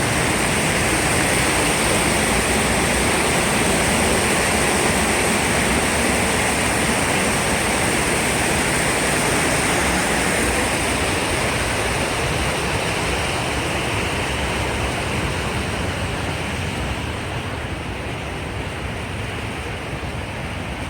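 Waterfall rushing: a steady, even sound of falling water that slowly grows fainter over the last third.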